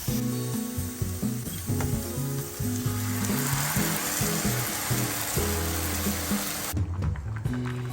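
Food sizzling in a frying pan, a steady hiss that swells after a few seconds and cuts off sharply near the end, under background music with a slow melody.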